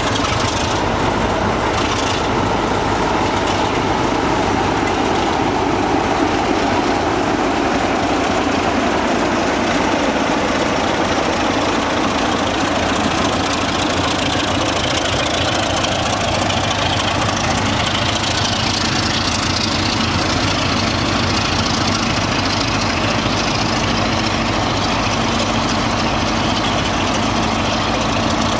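A passing train with a steady engine drone running evenly throughout.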